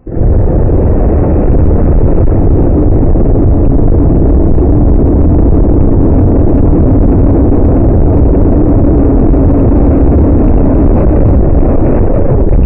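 Steady, loud engine rumble with a low hum, like a heavy truck engine running, cutting in and out abruptly.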